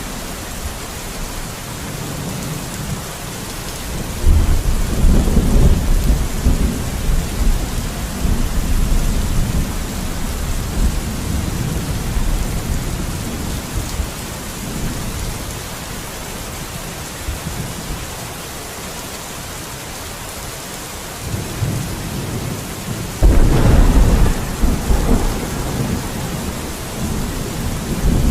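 Steady heavy rain with two rolls of thunder. The first starts suddenly about four seconds in and rumbles away over several seconds. The second builds near the end, breaks with a loud crack and rolls off.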